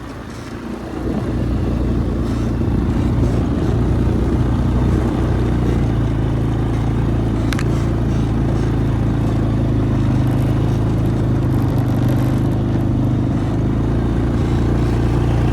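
Quad (ATV) engine running steadily under load while pushing snow with a front plow blade; it grows louder about a second in and then holds an even note.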